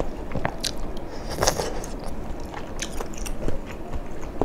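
Close-miked chewing of spicy tteokbokki rice cakes: wet mouth smacks and small clicks, with one more prominent smack about a second and a half in.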